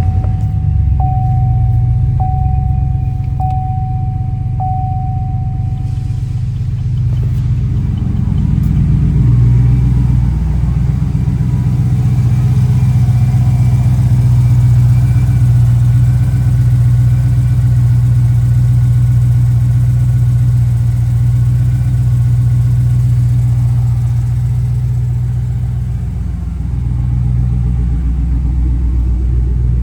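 2015 GMC Sierra 1500's 5.3-litre V8 idling steadily just after a start. A dashboard warning chime sounds four times, about a second apart, in the first five seconds.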